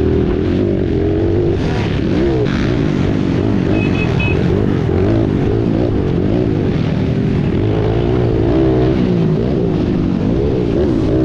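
Dirt bike engines revving up and down, running continuously, with more than one engine heard at once. A short beep sounds about four seconds in.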